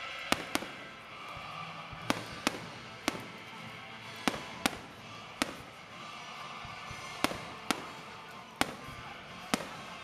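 Aerial firework shells bursting in the sky: about a dozen sharp bangs at irregular intervals, some in quick pairs, over steady background noise.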